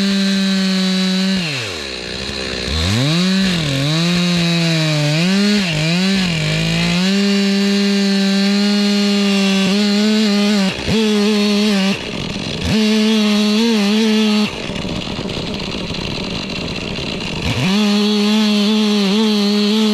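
Two-stroke chainsaw running at high revs, ripping a log lengthwise to cut a slab off along a snapped line. A few seconds in, the engine pitch sags and recovers several times as the chain bogs in the cut. Later it drops briefly twice, then falls off for about three seconds before picking back up near the end.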